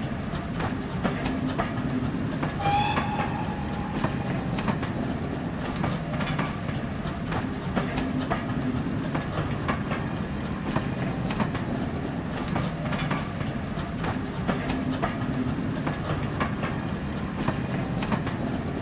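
A railway train passing, its wheels clattering steadily over the rail joints with a continuous rumble. A short high tone sounds about three seconds in.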